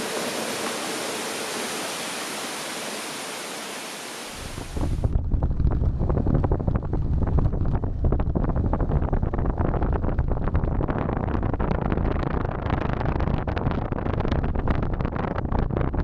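A steady rushing hiss that slowly fades. About four seconds in, it is cut off by heavy rain drumming on a tarp: a dense patter of close, sharp drop impacts over a deep rumble that keeps up steadily.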